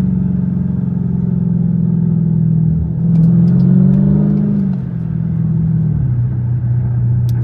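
Dodge Challenger Scat Pack's 392 HEMI V8 running, then revving up as the gas is pressed about three seconds in, and falling back to a lower steady drone by about six seconds.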